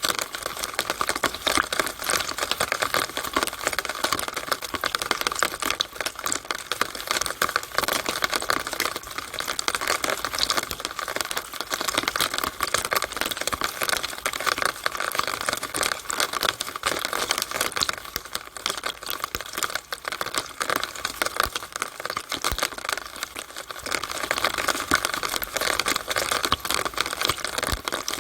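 Rainwater running down a downspout, heard as a steady, dense patter of rapid irregular drips and splashes.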